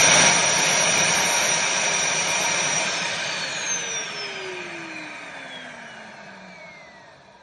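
Bissell CrossWave HydroSteam's vacuum motor spinning down after being switched off. The rushing air noise fades steadily while its whine drops in pitch.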